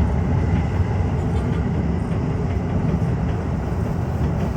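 Tokyo Metro 15000 series subway train running at speed through a tunnel, heard from inside the front car: a steady rumble of wheels on the rails.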